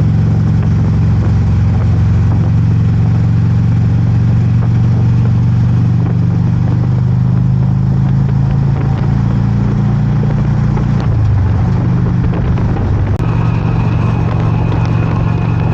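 Harley-Davidson motorcycle engine running steadily at road speed, its low note shifting about eleven seconds in as the throttle changes; a thin high tone joins near the end.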